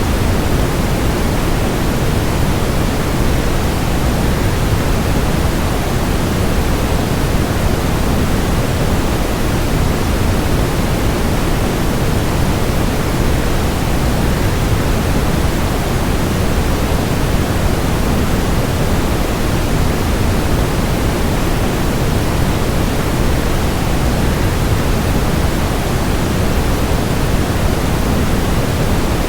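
Waterfall: water falling in a steady, unbroken rush. It is fairly loud and even, with no changes or separate splashes, and weighted toward the low end like pink noise.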